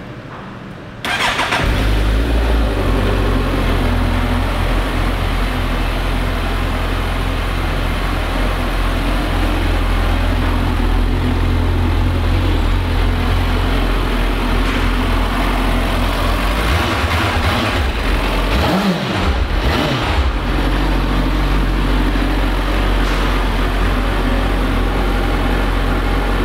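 2009 Suzuki GSX650F's inline-four engine starting about a second in, then idling steadily. Past the middle there are a couple of quick throttle blips that rise and fall in pitch before it settles back to idle, running smoothly.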